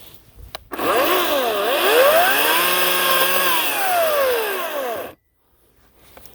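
Ryobi 18-inch electric chainsaw running: its motor whine dips in pitch, climbs back to a steady high speed, then winds down and stops suddenly about five seconds in.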